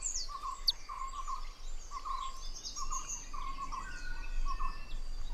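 Forest birds calling: a short note repeats about twice a second, with thinner chirps and whistles above it and a sharp click about a second in.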